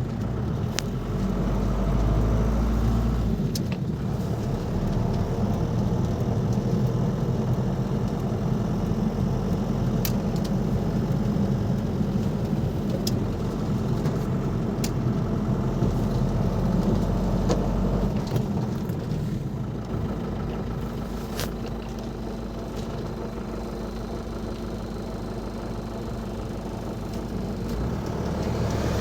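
Ford Transit Mk5's 2.5-litre four-cylinder 'banana' diesel engine running steadily as the van is driven, easing off about two-thirds in and picking up again near the end.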